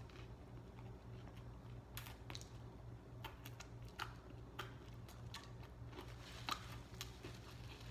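A person chewing a mouthful of sub sandwich, faint, with scattered soft wet mouth clicks over a low steady hum.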